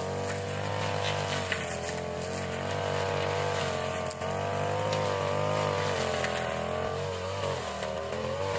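Small petrol engine of a grass-cutting machine running at high speed, its pitch wavering slightly up and down as the load changes.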